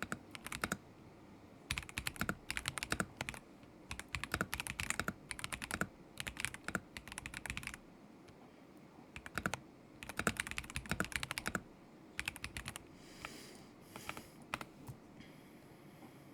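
Kzzi K75 Pro mechanical keyboard with Moment linear switches being typed on in quick bursts of keystrokes with short pauses. The typing stops a few seconds before the end, leaving only faint brushing noises.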